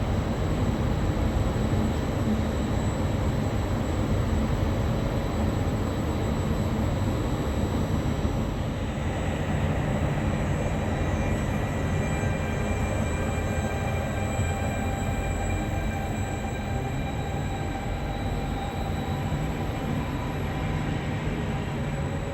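Regional train running slowly through a station with a steady low rumble; thin, high steady tones join in about nine seconds in.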